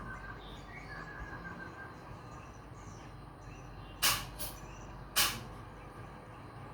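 Faint bird chirps in the first couple of seconds, then three short, sharp noises about four to five seconds in, the loudest sounds here.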